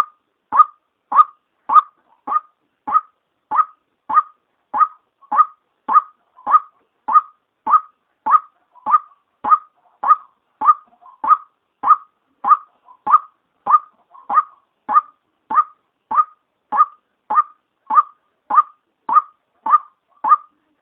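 Female white-breasted waterhen call: one short note repeated very evenly, a little under two a second, the lure call used to draw waterhens in.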